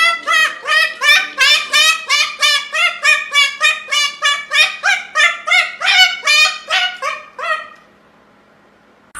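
A parrot calling over and over in short, rising, honking squawks, about two to three a second. The calls stop near the end.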